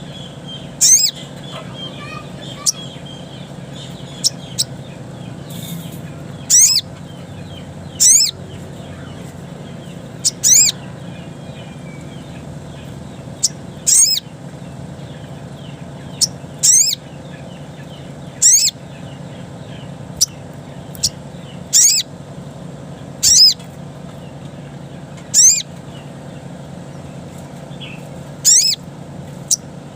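Sogon (sogok ontong) bird calling in its wild-type 'ngalas' style: short, sharp, high-pitched notes that slide downward, repeated every one to two seconds and sometimes doubled. A steady low hum runs underneath.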